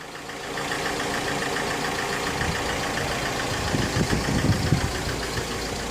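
Mercedes Sprinter's freshly fitted remanufactured OM646 four-cylinder diesel engine idling steadily, with a brief patch of louder, uneven noise about four seconds in.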